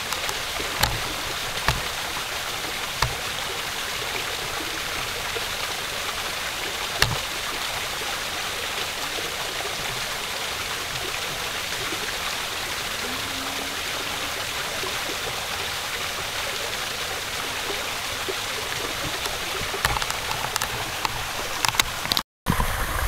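Steady rushing of flowing water, with a few faint clicks in the first seconds; the sound cuts out for a moment near the end.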